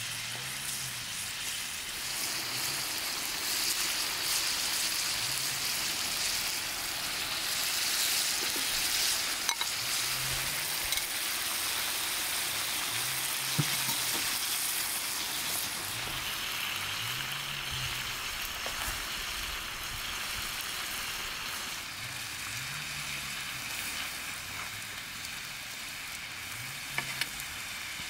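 Meat, onions and potato cubes frying in oil in a wide saj pan over a fire, with a steady sizzle. There are a few light clicks.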